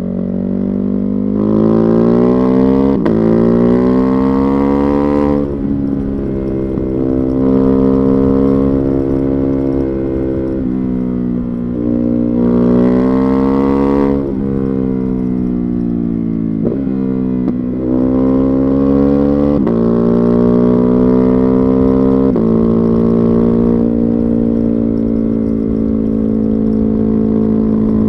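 Ducati Hypermotard 950's 937 cc Testastretta 11° L-twin, breathing through a Termignoni exhaust, pulling through the gears. The engine note climbs in pitch, drops briefly at each shift and then climbs again; in the last few seconds it holds a steady note.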